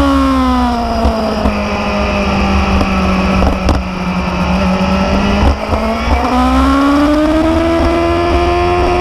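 Motorcycle engine while riding: its note falls as it slows, holds steady for several seconds, then rises again as it accelerates about six seconds in, over a steady low rumble.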